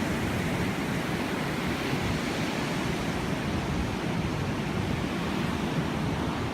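Sea waves washing steadily, an even rushing noise with no distinct breaks.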